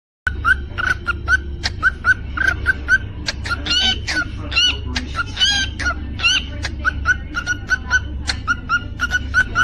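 Cockatiel chirping: short, even chirps about three a second, broken by a few longer rising calls in the middle, with sharp clicks between them. A steady low hum runs underneath.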